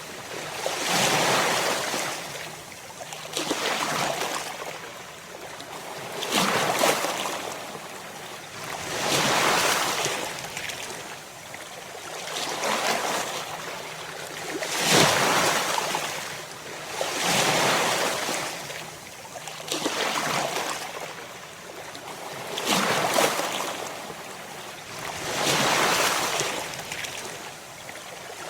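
Ocean waves crashing one after another, a surge about every two to three seconds, each swelling and then fading.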